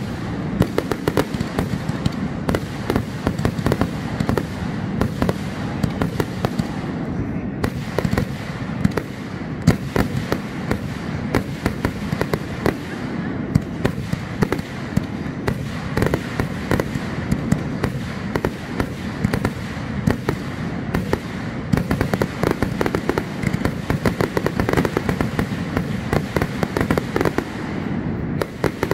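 A dense, unbroken barrage of fireworks shots and bursts, many per second, with no pause: the big multi-shot finale of a consumer fireworks show.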